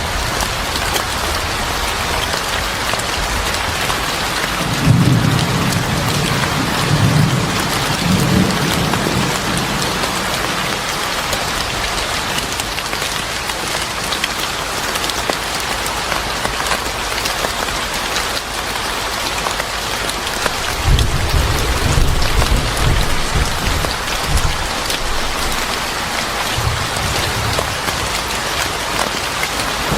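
Steady heavy rainfall with low rolls of thunder, one about five seconds in and another about twenty-one seconds in.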